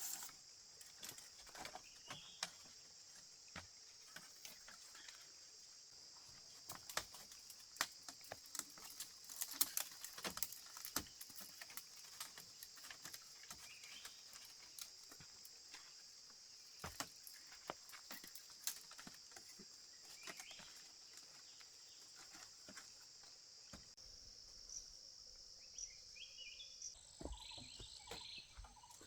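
Steady high-pitched drone of insects chirring, with scattered light clicks and taps throughout. The insect drone shifts near the end.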